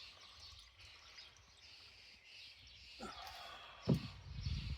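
Quiet outdoor background with birds chirping, then a couple of short handling knocks about three and four seconds in, the second the loudest.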